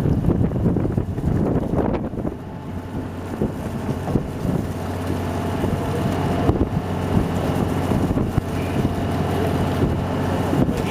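A boat's engine running steadily with a low hum, with wind buffeting the microphone.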